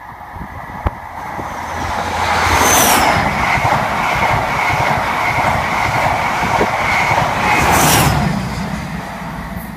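Express passenger train passing close by at speed: a rush of wheels and air that builds, peaks sharply about 3 seconds in as the front passes, runs on over the coaches, peaks again near 8 seconds as the rear passes, then fades away.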